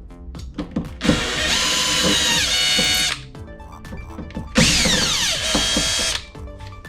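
Cordless drill-driver run in two bursts of about two seconds each, its whine sliding in pitch as the motor speeds up and slows, with small clicks between the runs: unscrewing fasteners to take out a diesel air heater's burner.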